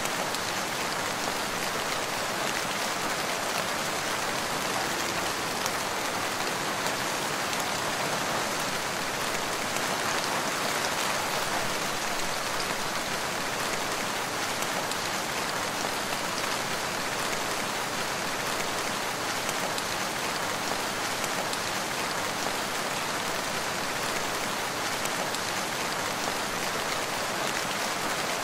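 Steady rain falling in a forest, an even hiss of many drops on leaves and ground with no breaks.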